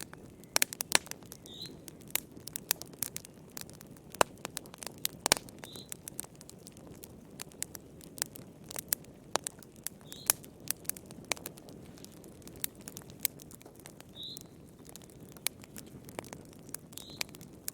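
Wood fire in a fireplace crackling, with many sharp irregular pops over a steady low noise of the burning. A short, faint high note comes every few seconds.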